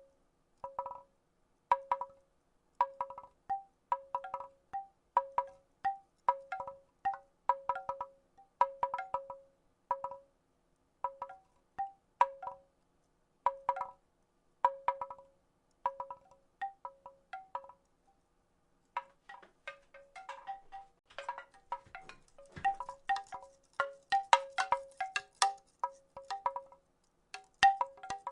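Wooden rattle shaken in an even rhythm, a little more than once a second, each shake a cluster of clacks ringing with short tuned tones. About two-thirds of the way through, after a brief pause, the shaking turns faster and more jumbled.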